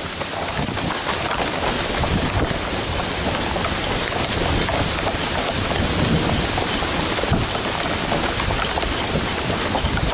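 Steady rain falling, with drops hitting right at the microphone of a camera that is wet with rain.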